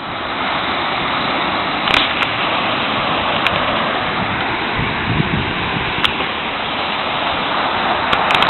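Sea surf washing steadily onto the shore, a continuous hiss of breaking waves, with a few sharp clicks.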